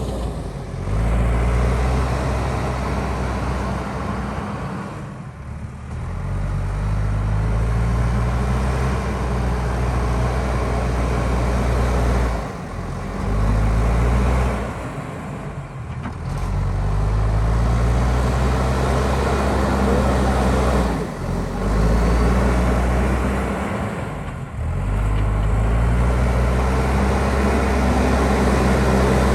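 JCB backhoe loader's diesel engine working under load, its revs rising and falling, with several brief drops in revs.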